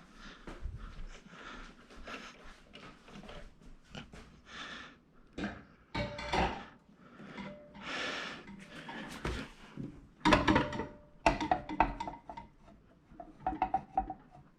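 Jaguar cutting plotter being handled and lifted onto its metal stand: irregular rubbing and clattering, then several sharper clunks with brief metallic ringing in the last few seconds.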